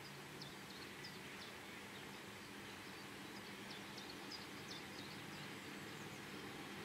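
Faint hum of an approaching electric locomotive, slowly growing louder, with birds chirping over it.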